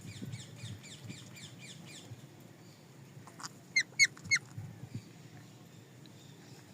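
Parrot calling: a rapid run of short chirps for the first two seconds, then four loud, sharp squawks in quick succession about three and a half seconds in.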